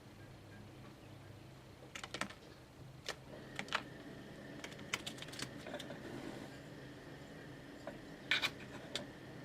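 A scatter of sharp, light clicks and taps coming in small irregular clusters, like typing, with a faint steady high tone from about three seconds in.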